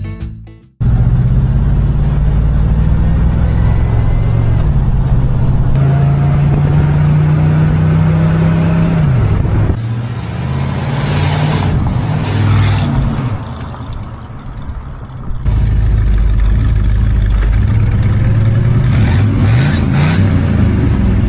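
Car engine running loud, its pitch stepping and gliding up and down with revving; it drops quieter for a moment about two-thirds through, then picks up again.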